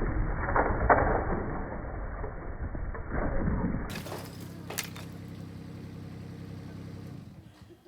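Brick chimney crashing down, with heavy impacts of falling masonry at about half a second and three seconds in; the sound is dull and slowed down. Then the Kubota U27-4 mini digger's engine runs steadily, with a sharp knock about a second later, and fades out near the end.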